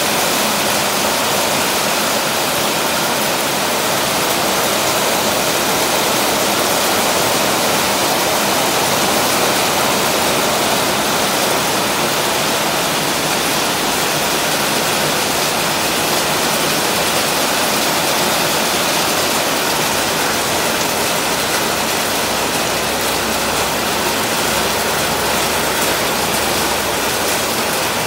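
Heavy tropical downpour on a zinc roof: a steady, dense rush of rain, with water pouring off the roof edge.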